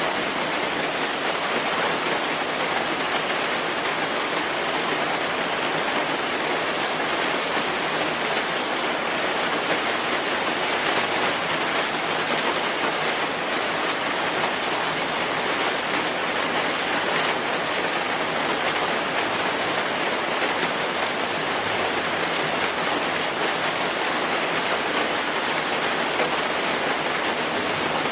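Steady rainfall: an even hiss of rain on a surface, with a few individual drops ticking now and then, unchanging throughout.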